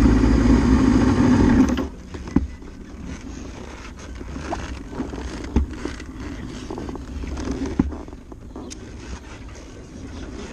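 Suzuki GS650G's inline-four engine running, then cut off a little under two seconds in. After that there are only scattered light clicks and knocks over a low background.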